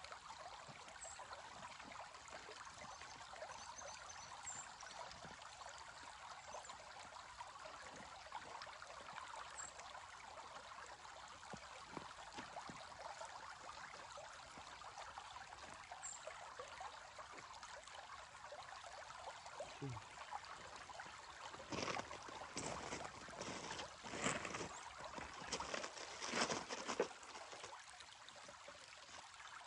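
Shallow, clear creek water trickling steadily over rocks. Near the end come a few short, louder knocks or splashes.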